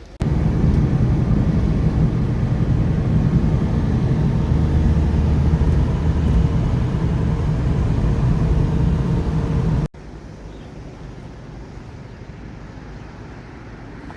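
Road vehicle running, a loud steady low rumble with a faint steady hum in it; about ten seconds in it cuts off abruptly to a quieter, even background noise.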